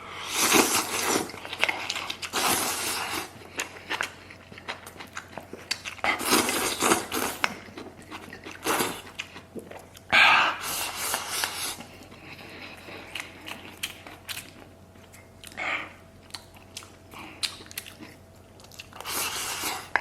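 A person eating a mouthful of spicy maocai: repeated loud bites and chewing, in about seven separate bursts with quieter pauses between them.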